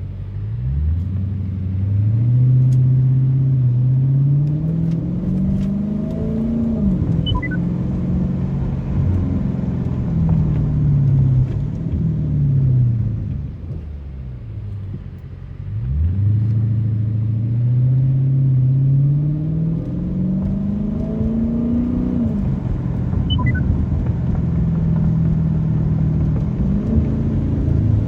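Straight-piped 2023 Dodge Challenger Scat Pack's 392 HEMI V8 accelerating hard twice, about fifteen seconds apart. Each time the exhaust note climbs for several seconds, then drops at the upshift and carries on lower, easing off in between.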